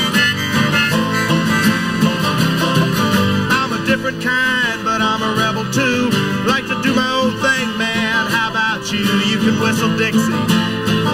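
Acoustic country band playing an instrumental passage: strummed acoustic guitars with a bending, warbling lead melody over them.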